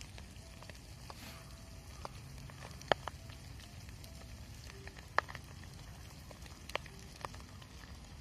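Wood campfire crackling: sharp pops every second or so over a steady low background.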